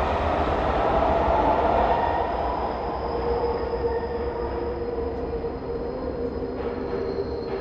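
Subway train running, with a steady high whine coming in about three seconds in as the overall sound eases slightly.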